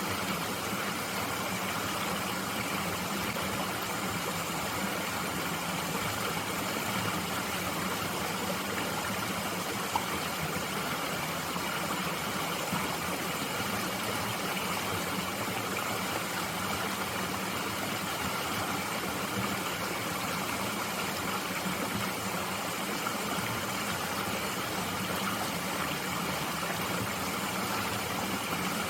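Mountain stream flowing steadily, a constant rush of water over rocks, with a single brief click about ten seconds in.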